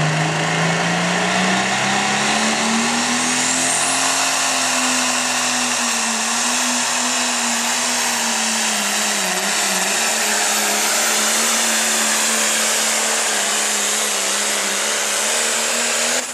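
Light pro stock pulling tractor's engine running hard under load on a pull. Its pitch rises over the first few seconds, then holds steady with a brief dip near the middle. A high whistle climbs about three seconds in, and the engine sound falls away sharply at the very end as the run finishes.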